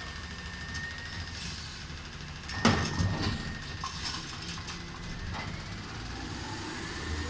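Recycling truck engine running steadily, with one loud bang about two and a half seconds in followed by about a second of clattering.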